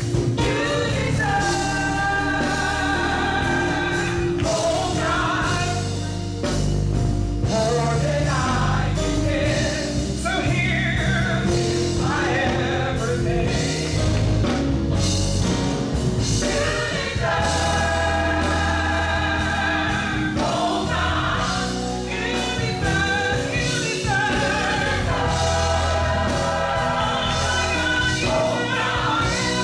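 Live gospel music: a vocal group singing with bass, keyboard and drums, the voices holding long notes.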